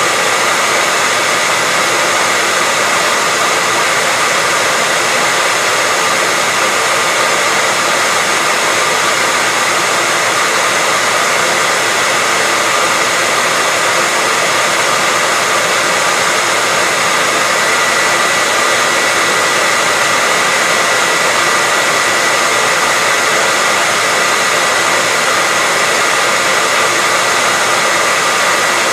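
Hair dryer running steadily: a constant, even blowing noise with a steady whine high in pitch, unchanging throughout.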